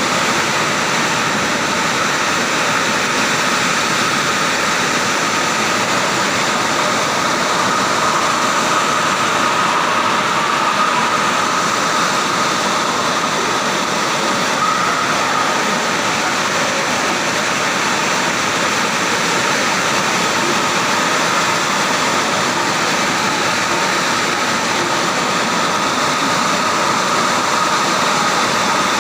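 Heavy rain with strong wind: a steady, loud rushing noise with no breaks.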